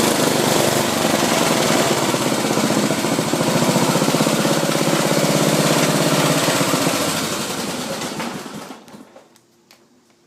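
Ariens RM1032E riding mower engine running, then slowing and dying away to a stop about eight or nine seconds in. The owner says this very old mower often throttles down like this on its own.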